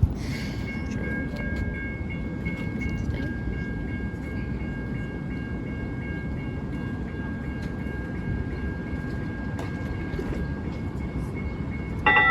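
TriMet MAX light-rail train running with a steady low rumble and a steady high-pitched whine. A loud, pulsing bell-like ringing starts just at the end.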